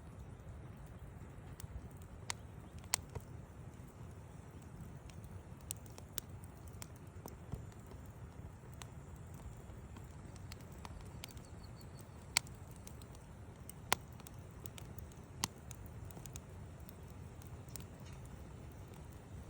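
Wood fire crackling: irregular sharp pops and snaps of burning wood, a few louder ones standing out, over a low steady rumble.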